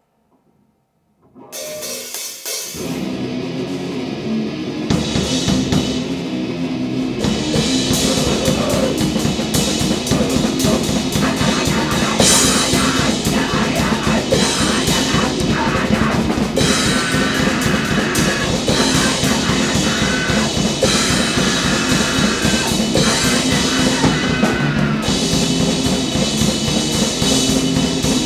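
A brief silence, then a grind/noise band starts a track: rapid drum kit with crashing cymbals under heavily distorted guitar, building over the first few seconds to a dense, loud wall of sound that holds.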